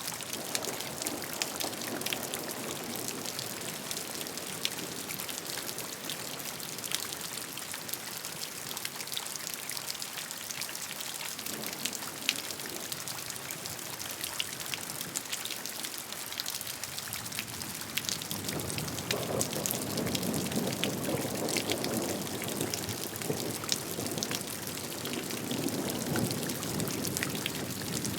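Rain falling, with many separate raindrops ticking sharply over a steady patter. About two-thirds of the way through, a deeper, fuller layer of rain sound swells in and stays.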